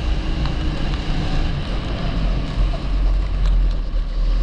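A 270cc kart engine running steadily, heard onboard, with wind buffeting the microphone.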